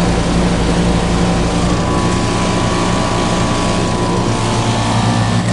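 Outdoor air-conditioner condensing units running: a steady compressor hum under the whoosh of the condenser fans.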